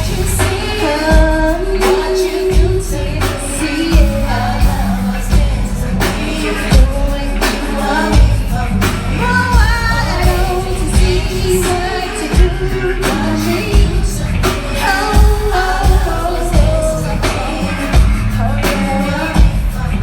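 Live R&B song played through a concert PA: a lead vocal sung over a band's steady, heavy drum beat and bass.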